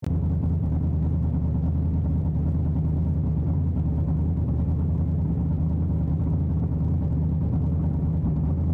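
Drag-racing Ford Anglia's engine idling steadily, heard from inside the cockpit.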